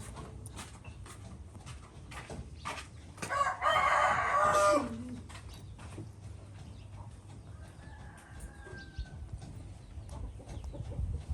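A rooster crowing once, a loud call about a second and a half long that drops in pitch at the end, starting about three seconds in. A faint second call follows a few seconds later.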